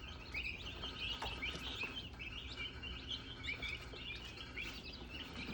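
A group of young poultry, chicks and turkey poults, peeping continuously in many short overlapping high chirps, over a faint low hum.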